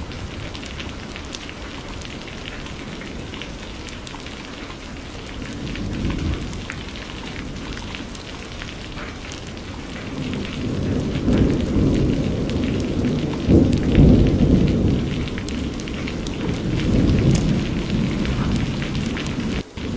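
Steady rain with drops pattering, and low rolling thunder that swells from about halfway through, loudest around two-thirds in, then fades. The sound drops out for an instant near the end.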